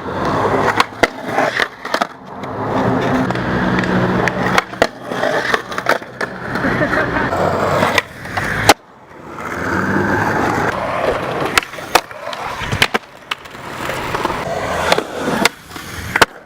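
Skateboard wheels rolling on concrete with a steady rumble, broken by a series of sharp clacks and slaps of the board as tricks are popped and landed; the loudest clack comes just before the middle, followed by a brief lull before the rolling resumes.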